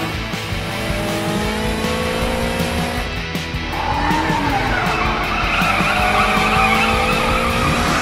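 Sound-effect sports car accelerating hard with its engine note rising, then tyres screeching in a long skid from about three and a half seconds in, over background music.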